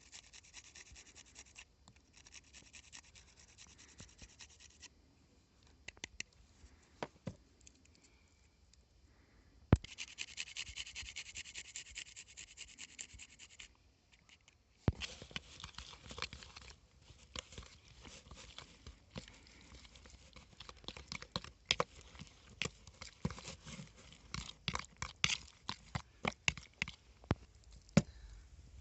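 Cooking on a disc over a campfire: sizzling in spells, with scraping and many sharp clicks and taps from about halfway on.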